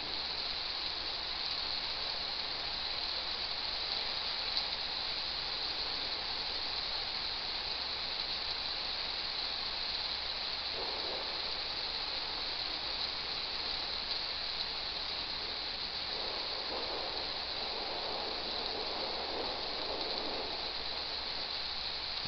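Steady hiss of falling rain from a thunderstorm ambience, even throughout, swelling slightly about halfway through and again near the end.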